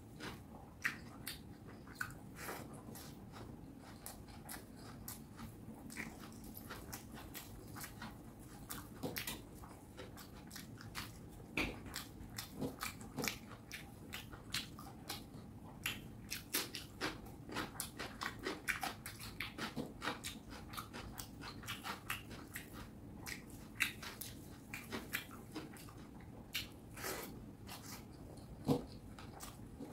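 Close-up eating sounds: wet chewing and mouth clicks of someone working through mouthfuls of rice and fish curry, many small clicks all the way through.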